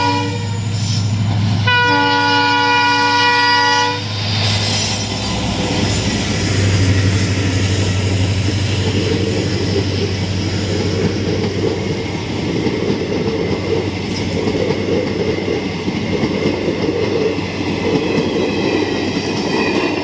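Indian Railways diesel locomotive sounding its horn: a blast ending just after the start, then a second, two-second blast about two seconds in. Then the passenger train passes close by, its coaches' wheels rumbling and clattering steadily over the track.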